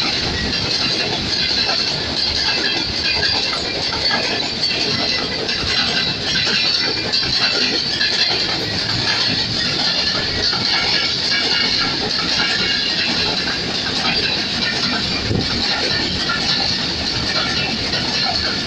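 Pakistan Railways passenger coaches rolling steadily past, a continuous loud rush and rumble of steel wheels on the rails.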